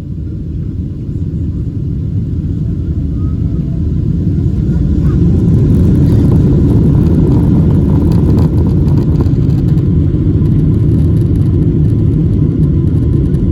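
Boeing 777-200 heard from inside the cabin: a loud, low rumble of jet engines and airframe that builds over the first several seconds, then holds steady.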